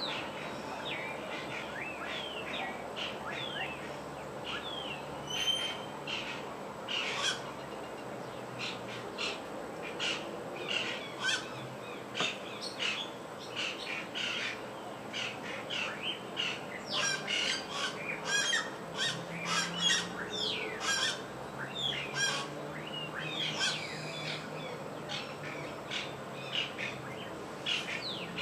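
A chorus of many birds calling at once: short chirps, whistles and squawks overlap continuously, growing busier about a third of the way in.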